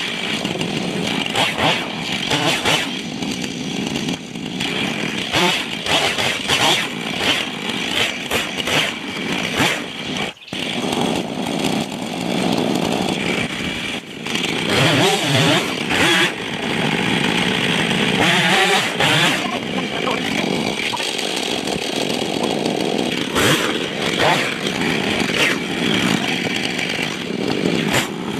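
Two-stroke chainsaw running and cutting up a dead pine, its engine speed rising and falling as it works, with one brief drop about ten seconds in.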